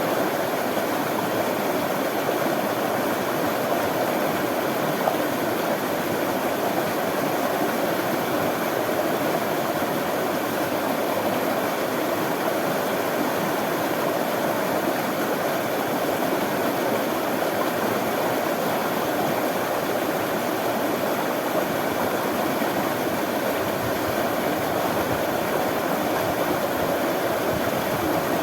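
Running water flowing steadily, an even rushing sound with no pauses or changes.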